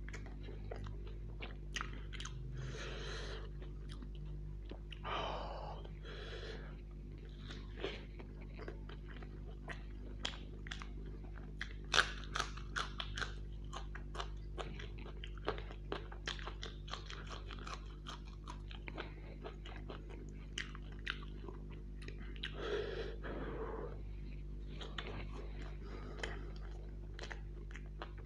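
Close-miked chewing of deep-fried pakora and samosa: wet mouth clicks and crunches. The loudest crunch comes about twelve seconds in.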